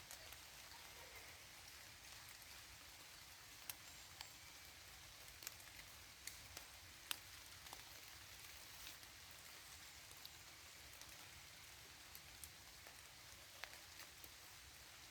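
Rain falling in a forest: a soft, steady hiss of rain with scattered single drops ticking sharply on leaves and surfaces.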